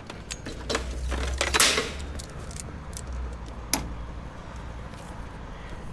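Handling noises: a few sharp clicks and knocks and a short rushing, rustling noise a second and a half in, over a low steady hum.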